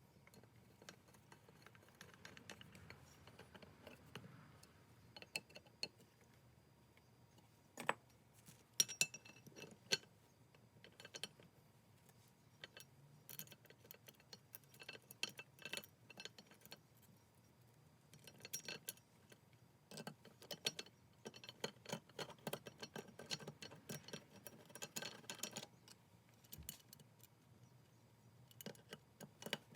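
Light, irregular metallic clicks and clinks of a Stanley No. 5 jack plane's parts being handled and fitted together during reassembly, a few sharper knocks about eight to nine seconds in.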